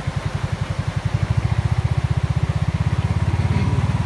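A vehicle's engine running with a steady, rapid low pulsing that grows a little louder about a second in.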